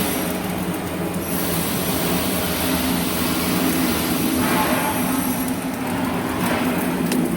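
Flux-cored arc welding: a steady arc hiss over a low machine hum, with a thin high tone that comes in about a second in.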